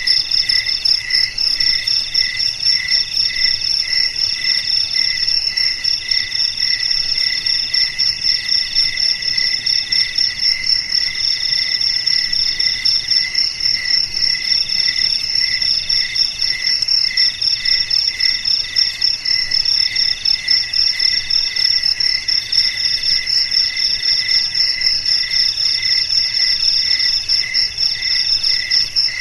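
Crickets chirping in a chorus of several insects at once: one in a high, fast, unbroken trill, another in even chirps about twice a second, and a third in trills of a second or two with short breaks between them.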